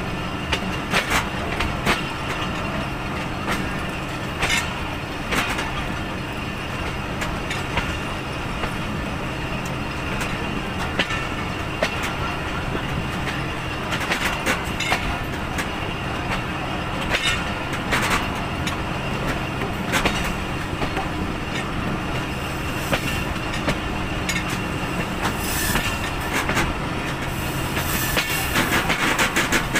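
Passenger train coach running along the track, heard from an open window: a steady rumble with the wheels clicking over rail joints at uneven intervals. A louder, high-pitched hissing rattle builds over the last few seconds.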